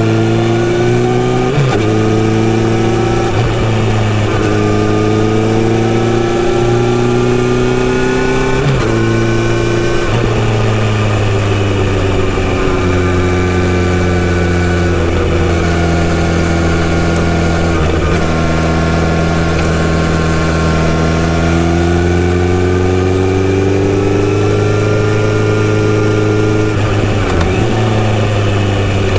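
Kawasaki Z900RS inline-four engine running through a full-system exhaust while the bike is ridden. The engine pitch climbs and then drops sharply several times in the first third as the rider accelerates and shifts, holds fairly steady while cruising through the middle, and climbs and drops again near the end.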